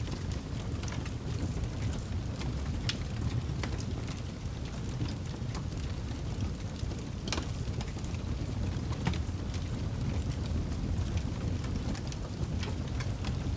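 Wood campfire crackling: scattered sharp snaps over a steady low rumble.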